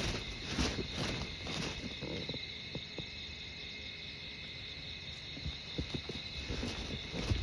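Steady chorus of insects chirring, with a walker's footsteps for the first couple of seconds, stopping, then starting again near the end.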